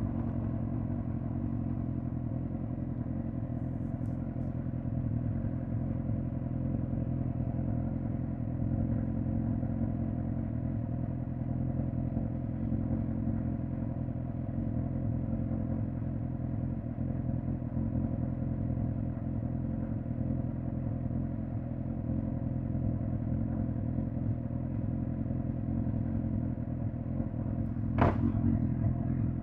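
2005 Suzuki GSX-R1000 K5's inline-four engine idling steadily. Near the end comes a single quick blip of the throttle.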